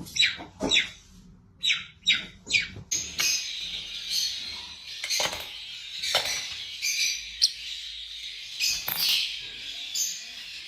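Parrots chirping: a few short, separate high chirps, then from about three seconds in a continuous dense chatter of chirps.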